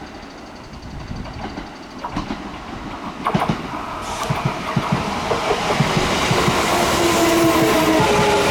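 Kintetsu electric train pulling into the station, its wheels clattering rhythmically over the rail joints and growing louder as it comes in. From about halfway, a whine falls slowly in pitch as the train slows.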